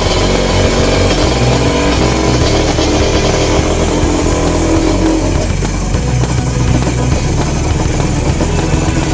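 Suzuki TS 125 two-stroke single-cylinder motorcycle engine running, heard together with background music.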